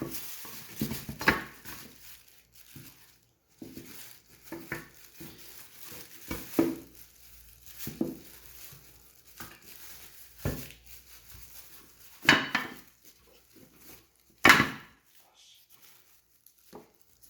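Hands handling plastic wiring-harness connectors and wires: irregular clicks, knocks and rustles, with two louder knocks in the last few seconds.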